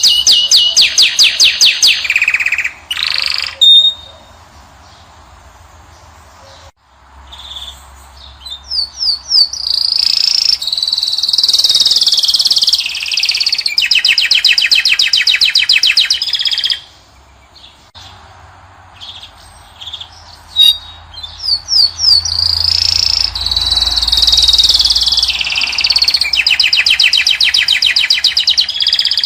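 Caged finch singing: loud, fast trills and twittering phrases, broken twice by pauses of a few seconds.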